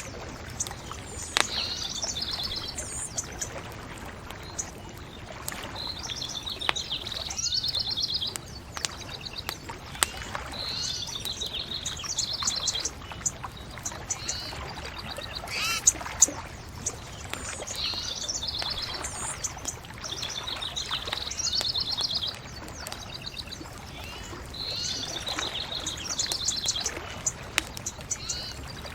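Songbirds singing, one repeating a fast trilled phrase every few seconds, over a steady low hiss, with the occasional sharp crackle and pop of a bonfire.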